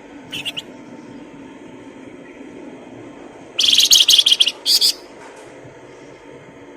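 Songbird calling: a short high chirp about half a second in, then a loud, rapid high-pitched chattering trill lasting about a second and a half, with a brief break near its end, over a steady low hum.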